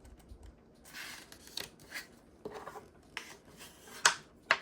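Cardstock card base being burnished along its scored fold: several short rubbing strokes, then two sharp clicks near the end.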